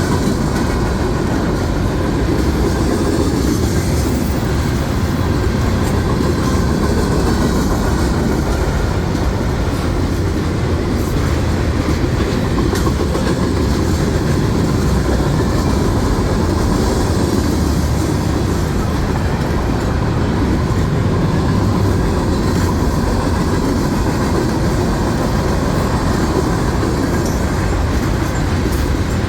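Train running along its rails: a steady, unbroken rumble with faint steady tones above it.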